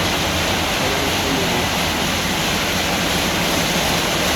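Kleindienst California car wash running: rotating brushes scrubbing a car under water spray, making a steady, even rushing noise.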